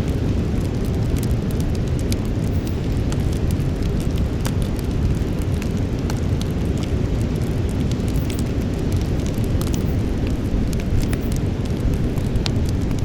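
Campfire burning with frequent sharp crackles and pops over a steady low rumble.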